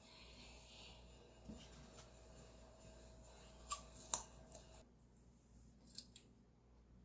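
Very quiet kitchen sounds: a few short, sharp clicks over a faint steady hiss, the two loudest a little after the middle and two fainter ones near the end.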